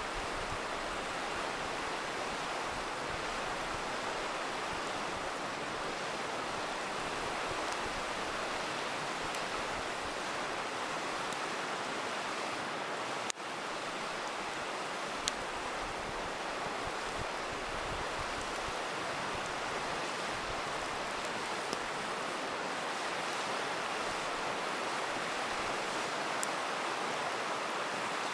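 A river rushing steadily, with a few sharp crackling pops from a wood campfire.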